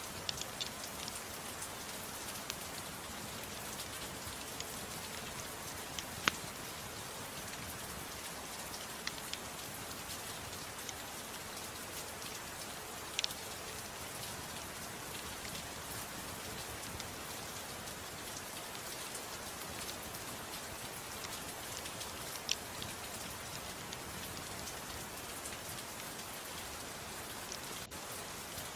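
Steady soft rain falling in a dense, even patter, with a few sharp pops about 6, 13 and 22 seconds in.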